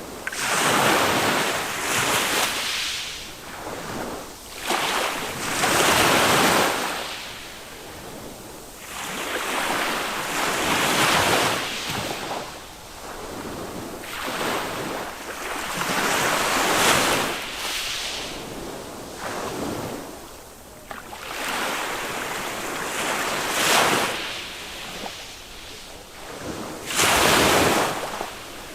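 Small waves of a calm Mediterranean sea breaking and washing up the beach, the surf swelling and falling away every few seconds.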